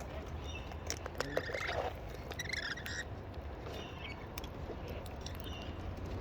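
Wild cockatoos giving several short, soft squeaky calls, mixed with light scattered clicks.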